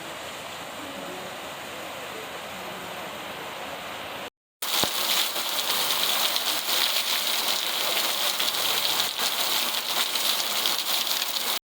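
A steady hiss of falling water, quieter at first, then louder and brighter after a brief break about four seconds in.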